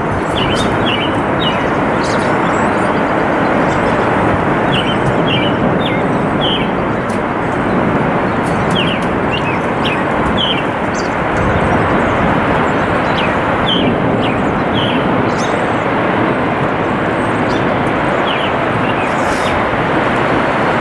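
Steady, heavy downpour of a hailstorm, a dense even rush of falling precipitation. A bird chirps through it in short runs of calls now and then.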